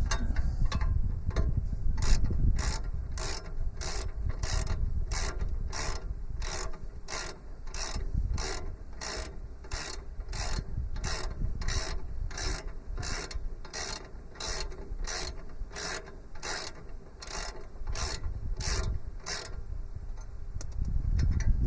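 Ratchet wrench clicking as a bolt on the tractor's loader/backhoe sub-frame is worked loose, in a steady run of about two clicks a second that stops near the end.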